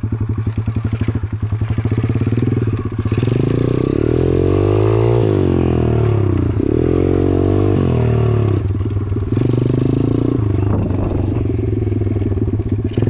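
Dirt bike being ridden along a rough trail: a steady motor drone with rattling from the bike, its pitch sweeping up and down a few times between about four and eight seconds in.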